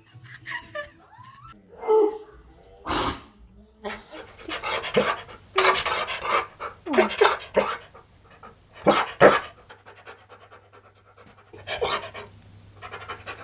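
Husky panting in loud, breathy bursts, with a couple of short whining vocal glides mixed in.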